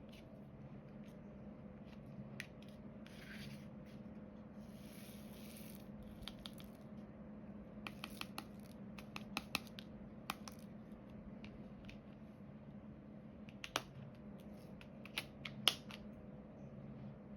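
Diamond painting work: small scattered clicks and taps as resin drills are picked up and pressed onto the canvas with a drill pen, with two short scratchy rustles early on and a steady low hum underneath.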